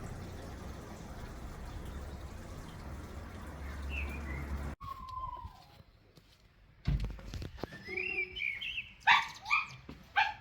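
Steady background noise with a single short bird chirp, then, after an abrupt break, a small dog whining and yipping in short, rising-and-falling cries that get louder near the end.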